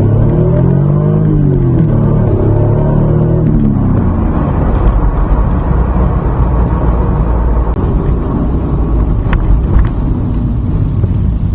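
Toyota 2JZ-GE naturally aspirated straight-six engine under way while driving. Its pitch rises for about a second and then falls over the next two, before giving way to a steady rumble of engine and road noise.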